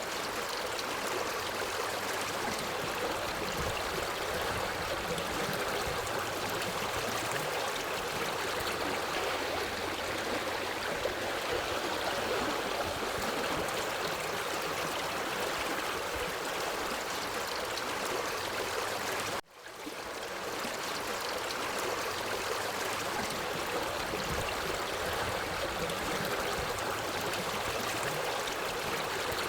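Forest stream flowing over rocks, a steady rushing and gurgling of water. About two-thirds of the way through it cuts out suddenly and fades back in over about a second, the seam of a looped recording.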